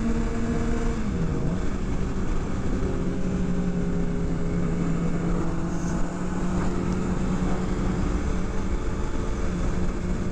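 Sport bike engine running at a steady cruise under heavy wind rush. The engine note dips about a second in, then settles at a slightly lower, steady pitch.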